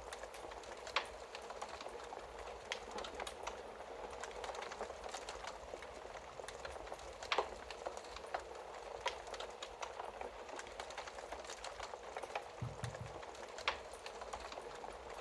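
Wood fire crackling in a fireplace: a steady soft hiss with many small irregular pops. Three louder snaps stand out, about a second in, midway and near the end.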